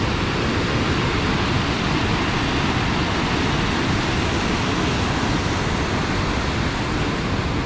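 Steady rushing noise of Palouse Falls, a large waterfall, unbroken and even throughout.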